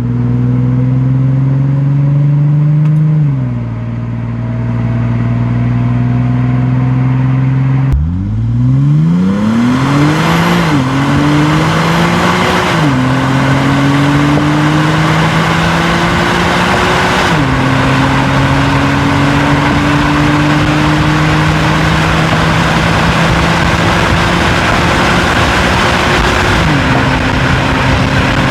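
2010 Infiniti G37's 3.7-litre V6 and exhaust under hard acceleration through the gears. The pitch climbs steadily and drops at each of four upshifts, with wind and road noise rising alongside. Before that, the car runs at a steadier pitch with one drop about three seconds in, then a sudden cut about eight seconds in.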